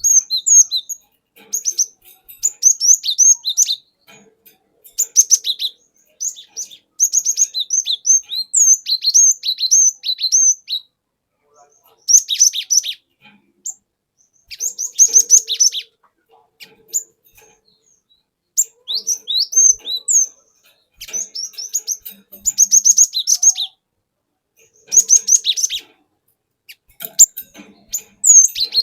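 Cinereous tit (glatik batu) singing in bursts of rapid, high chirps and whistled notes. The phrases last one to three seconds and are broken by short pauses.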